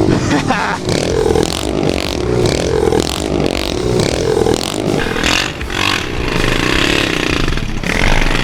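Pit bike engine revving up and down while riding, with rattling and rushing noise over it.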